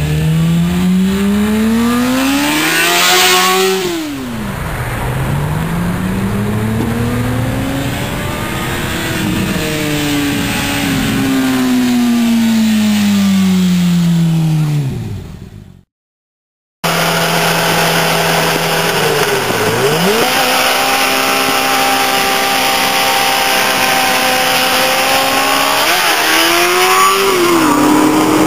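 Honda CBR600RR inline-four sport bike engine revving through its exhaust. The pitch climbs, drops sharply about four seconds in, then swells and falls away. After a brief cut, a second run holds a steady high-rev note with one dip and a climb near the end.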